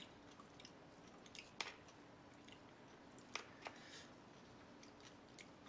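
Quiet chewing with a few faint soft clicks and mouth smacks, about a second and a half in and again around three and a half to four seconds in.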